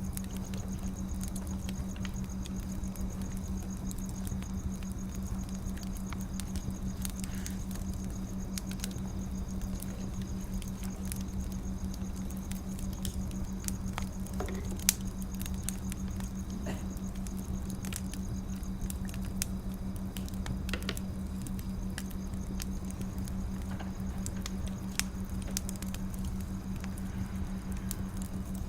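Wood fire crackling: a steady stream of small irregular pops and ticks with an occasional sharper snap, over a soft hiss and a steady low hum.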